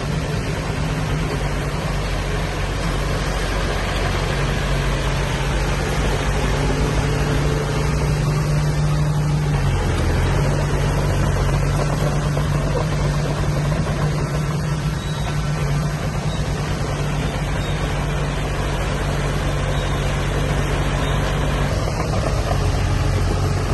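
Diesel engine of heavy earthmoving machinery running steadily, with a low drone that shifts briefly about ten seconds in.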